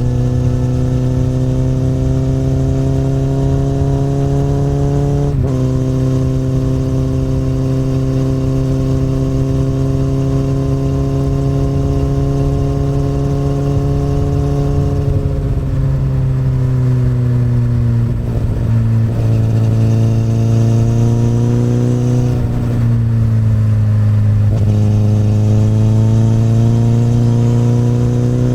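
A 2008 Honda CBR1000RR's inline-four engine through an Akrapovic exhaust, pulling under load. The engine note climbs steadily with a gear change about five seconds in. Past the middle the revs fall as the throttle is eased, with several quick shifts before the note climbs again near the end.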